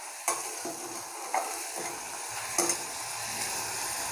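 Sweet corn kernels sizzling in butter in a small steel pan over a gas flame, a steady hiss, with three light clicks of metal against the pan.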